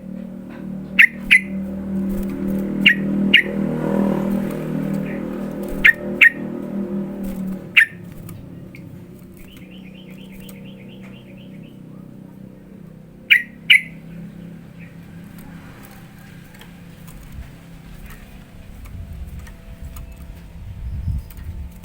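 Sooty-headed bulbul (trucukan) calling: sharp, loud chirps, mostly in quick pairs, spaced a few seconds apart, with one short rapid trill in between. A low steady hum underlies the first third and stops about eight seconds in.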